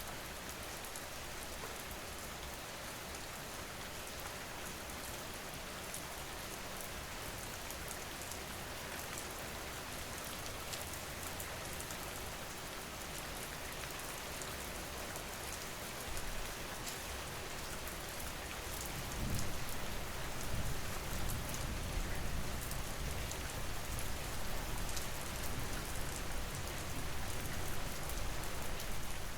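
Steady rain falling, an even hiss with fine patter of drops. About two-thirds of the way in, a low rumble joins and the sound grows louder.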